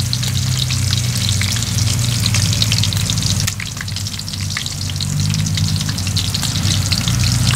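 Rat meat frying in hot oil in a pan, a constant crackling sizzle, with a steady low hum underneath.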